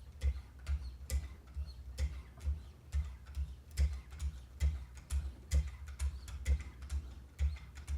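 Knife-sharpening strokes on a Wicked Edge guided sharpener: the 1-micron abrasive on its guide rods is drawn over the edge of an M4 steel blade in an even rhythm of about two strokes a second, each a short tick with a low knock, as the edge is polished.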